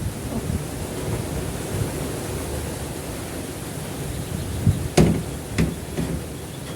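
Steady hiss with a fluttering low rumble of wind on the microphone. Two sharp clicks about five seconds in, and a fainter one just after.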